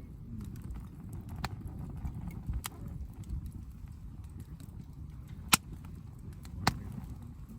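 Wood bonfire crackling: four sharp pops, the loudest about five and a half seconds in, over a low steady rumble.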